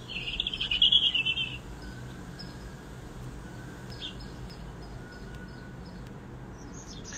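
A bird's fast, high trill for about a second and a half at the start, followed by scattered faint, short high chirps.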